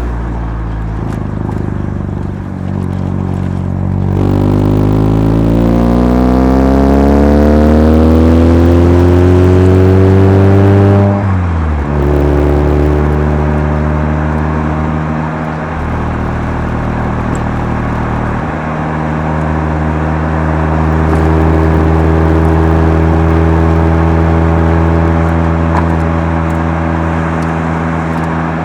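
Mazda RX-7 FC3S two-rotor rotary engine running through a Knight Sports Legal Sports aftermarket muffler while driving. The revs hold steady, then climb in a long rising pull of about seven seconds, drop sharply at a gear change about eleven seconds in, and settle to a steady cruise.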